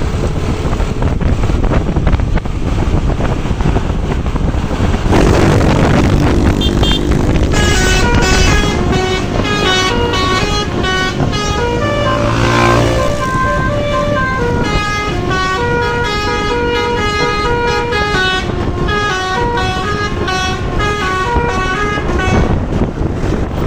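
Bus's basuri musical air horn playing a quick tune of short stepped notes, starting after several seconds of road and wind noise and carrying on until near the end.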